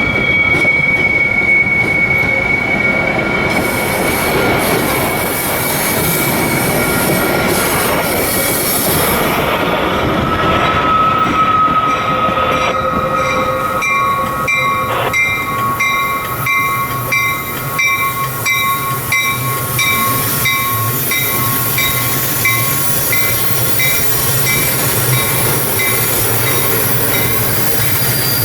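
Metra commuter train rolling slowly through the station trackwork, its wheels squealing on the rails in long, high, wavering tones. A short high tone repeats a little faster than once a second through the second half, with one sharp clank near the middle and a low diesel rumble building after it.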